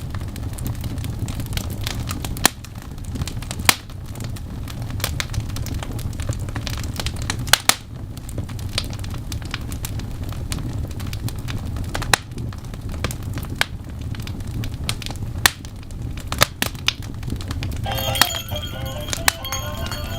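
Fireplace wood fire crackling, with sharp irregular pops over a steady low rumble. Music with steady pitched tones comes in near the end.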